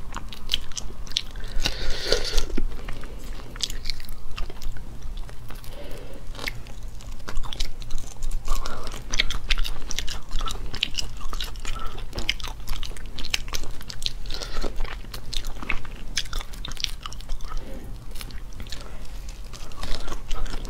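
Close-miked eating of small shell-on shrimp: a dense run of sharp, crunchy crackles as the shells are broken and bitten, with chewing in between.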